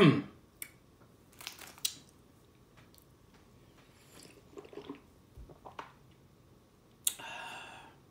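Mouth noises of a man eating very spicy instant ramen: chewing and scattered small wet clicks, with a short loud vocal burst right at the start and a long breath out near the end as he copes with the heat.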